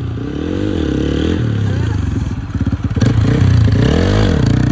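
Motorcycle engine running while riding, its pitch rising and falling twice as the throttle is opened and closed, getting louder about three seconds in.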